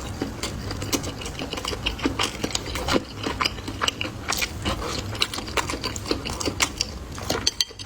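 Close-miked chewing of fatty pork slices: a dense, irregular run of small mouth clicks and smacks.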